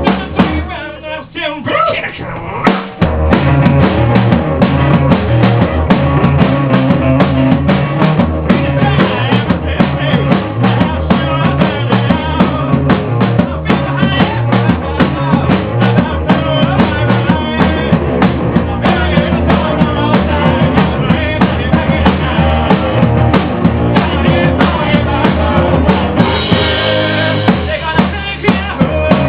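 Rock band playing an instrumental passage, with a drum kit driving a steady beat under bass and guitar. There is a brief break about a second in, and the full band comes back in at about three seconds.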